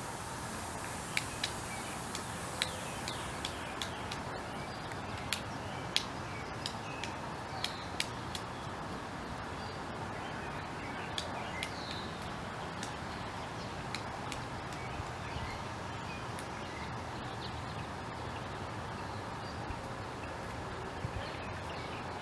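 Pileated woodpecker pecking and chipping at wood while foraging: irregular sharp taps, several a second for the first eight seconds or so, then sparser, over a steady background noise.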